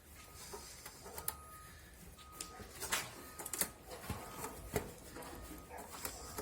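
Irregular taps, clicks and short scrapes of hand work cleaning the base of a washing machine's tub housing, with a faint short high tone recurring now and then.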